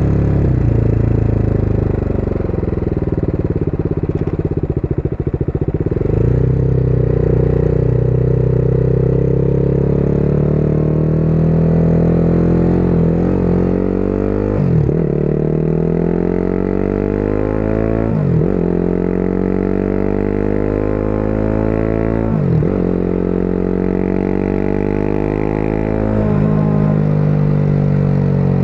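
Motorcycle engine heard from the rider's seat: it slows to a low, rough idle for a few seconds, then pulls away, rising in pitch and upshifting several times, each shift a quick drop in revs, before settling to a steady cruise.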